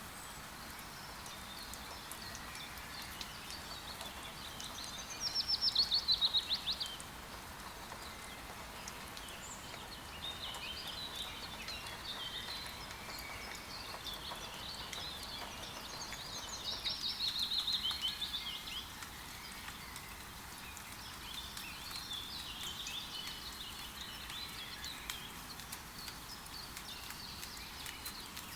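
Steady rain in a forest with songbirds. Twice a bird sings a loud, fast trill that falls in pitch, and softer twittering and chirps carry on between.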